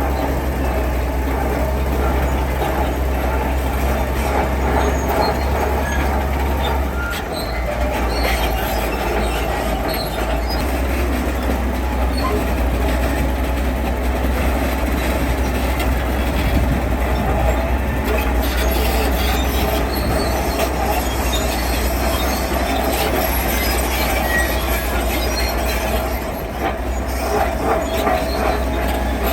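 Heavy diesel construction machinery running steadily, with a low engine hum under a busy clatter of many small knocks.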